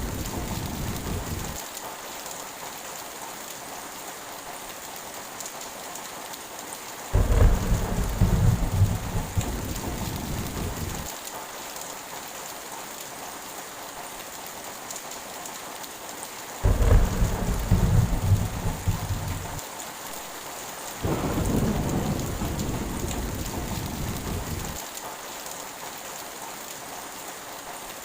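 Heavy rain falling steadily, with rolls of thunder. One roll is fading out at the start, then three more deep rumbles start suddenly about 7, 17 and 21 seconds in, each lasting three to four seconds.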